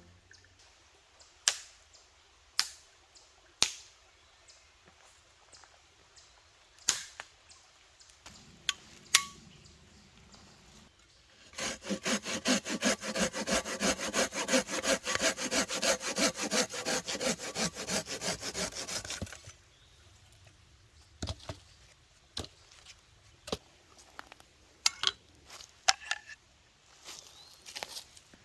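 Saw cutting through wood with quick, even strokes, about four a second, for some eight seconds in the middle. Before and after come scattered sharp knocks and snaps of wood being handled.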